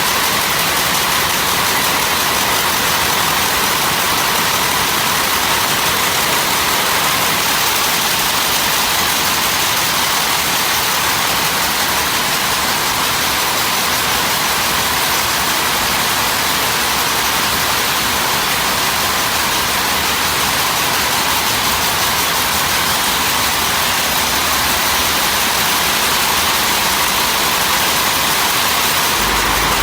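Loud, steady, unchanging noise, hiss-like and strongest in the upper range, with no distinct strokes or tones.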